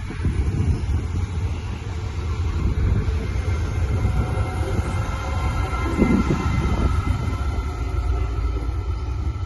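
Electric train running through a station: a steady low rumble with faint whining tones, louder about six seconds in.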